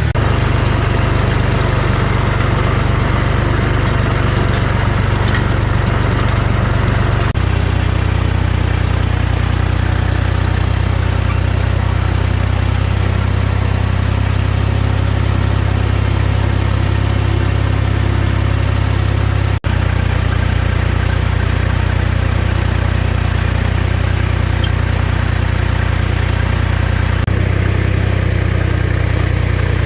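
Old tractor engine running steadily with a deep, even note that steps to a different pitch a few times.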